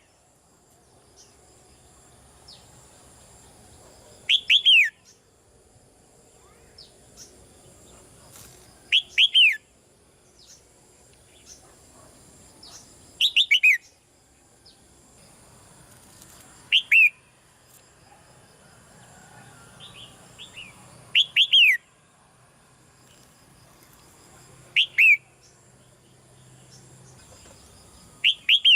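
Red-whiskered bulbul calling: seven short loud bursts spaced about four seconds apart, each a quick run of two to four notes falling in pitch, with a few softer chirps between.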